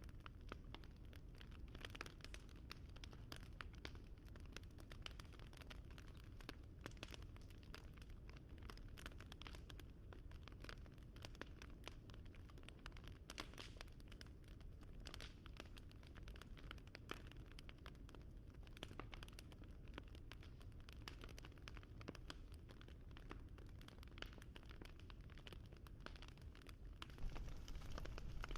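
Wood fire crackling: faint, irregular small pops and snaps over a low rumble, getting a little louder near the end.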